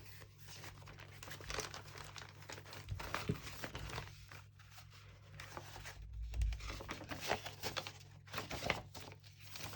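Paper and card rustling and crinkling as the pages of a handmade junk journal are leafed through.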